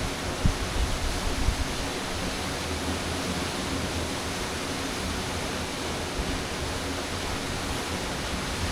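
Waterfall: water falling and splashing as a steady, even rush. A couple of brief low thumps come about half a second and a second and a half in.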